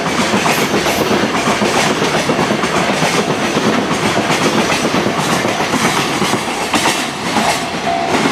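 Container freight wagons rolling past at speed, their wheels clattering over the rail joints in a steady clickety-clack. A pulsing high tone joins near the end.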